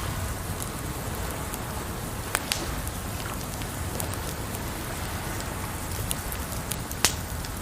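Wood fire crackling, with a few sharp pops of burning wood (two about two and a half seconds in, the loudest near the end), over a steady wash of water noise.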